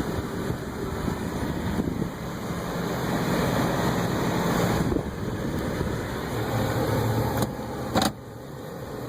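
Vehicle engine running steadily at idle, with a sharp slam about eight seconds in, after which the sound is suddenly quieter and muffled.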